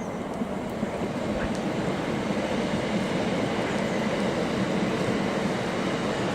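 A train running along the track, its steady running noise slowly growing louder.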